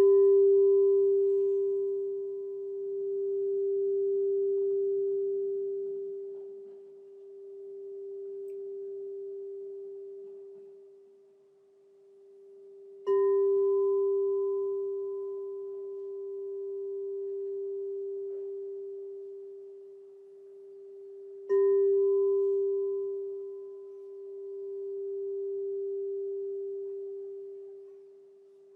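Crystal singing bowl struck three times, each strike ringing on as a long, pure, steady tone that swells and fades in slow waves every few seconds.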